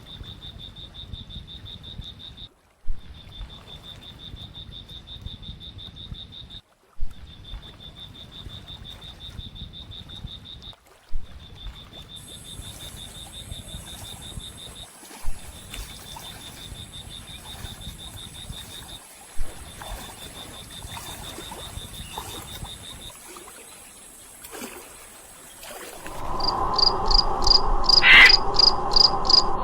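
Calling frogs and insects: a steady high trill broken by short silences about every four seconds, each just after a brief knock. Partway through, a second, higher steady buzz joins in, and near the end a louder, pulsing call takes over.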